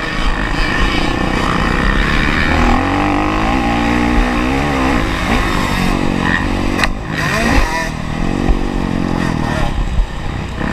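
Honda CRF450R's 450 cc single-cylinder four-stroke engine revving hard and backing off as the bike is ridden around a motocross track, its pitch rising and falling several times, with wind rush over the camera.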